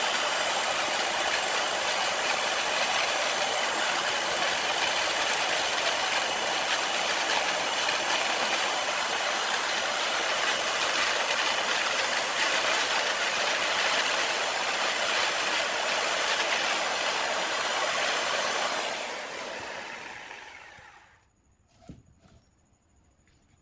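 A woodworking power tool's motor runs steadily with a high whine, then winds down and stops near the end.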